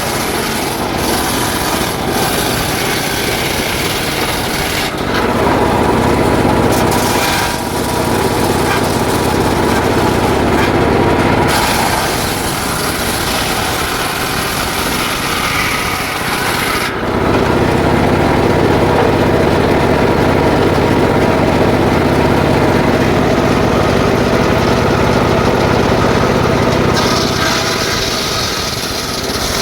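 Engine-driven circular saw cutting through jackfruit wood, running loud and steady with the pitch and tone shifting every few seconds as the blade bites in and eases off.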